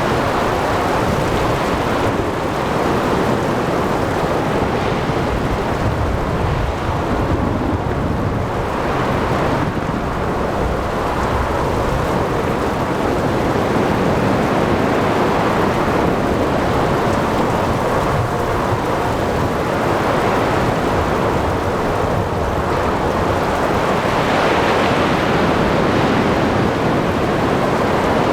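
Storm ambience at sea: rain, wind and waves making a dense, steady wash of noise, with rolling thunder that swells twice.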